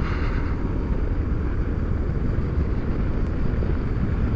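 Motorcycle riding at steady speed: engine drone and rushing wind, with most of the sound low and even.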